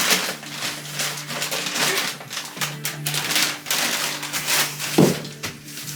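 Plaster powder being poured into a bucket of water, an uneven rushing hiss in surges, with one dull thump about five seconds in. A steady low hum, perhaps background music, runs under it.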